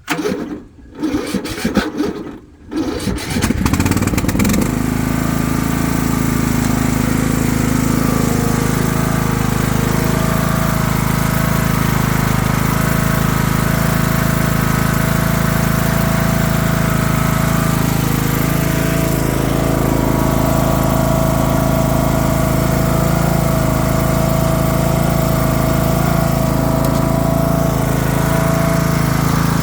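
Craftsman LT3000 riding lawn mower being started with the choke on: the starter cranks in short bursts, the engine catches about three seconds in and then runs steadily.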